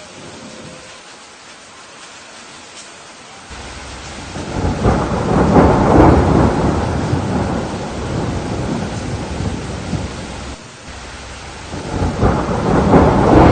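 Rain falling steadily with rolling thunder. A long roll of thunder swells about three and a half seconds in, peaks and dies away, and a second roll builds near the end.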